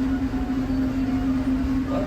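Park passenger train heard from inside a carriage: a steady hum over a constant low rumble.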